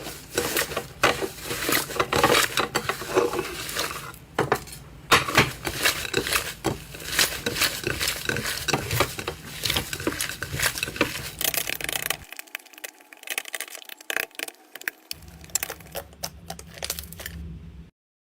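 Slime being squished and poked by hand, a dense run of sticky clicks and small pops. The sound stops abruptly near the end.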